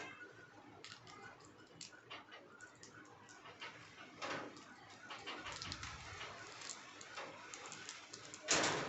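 Indian ringneck parrot nibbling chocolate: faint, scattered small beak clicks and ticks, with a short louder burst of noise near the end.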